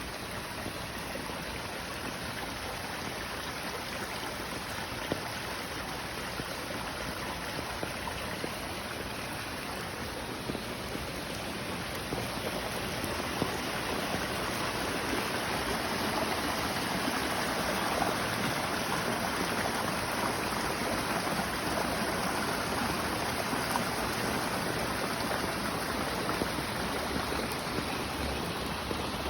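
Stream water flowing steadily, with no speech, growing somewhat louder about halfway through.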